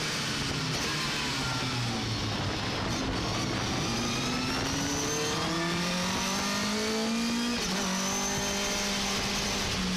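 Racing pickup truck engine running hard on track. Its pitch falls over the first couple of seconds, climbs steadily as it accelerates, drops abruptly about seven and a half seconds in, then holds steady.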